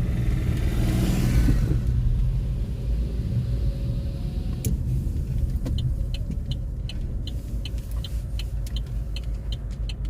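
Car running with a steady low rumble inside the cabin; another vehicle swells past in the first two seconds, then from about four seconds in the turn-signal indicator ticks steadily.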